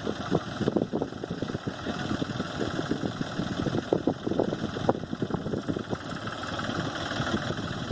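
Tractor diesel engine running steadily, with an uneven, rattly texture.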